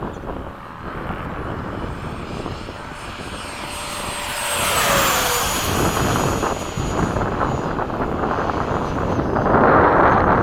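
Electric ducted-fan whine of a Freewing 90mm F-15 RC jet flying past. The whine gets louder and then drops in pitch as the jet passes about five seconds in, and swells again near the end. Wind rumble runs underneath.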